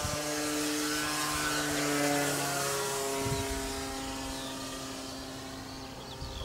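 Electric RC model Cessna 182's motor and propeller whining in flight, louder about two seconds in and then slowly fading, with the pitch dropping about three seconds in.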